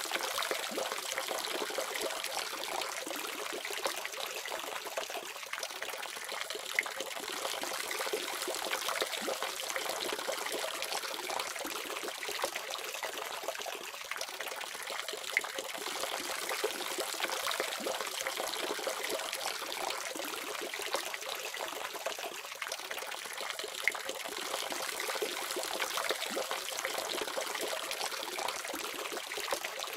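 Water tap running in a steady stream, splashing and trickling into a basin.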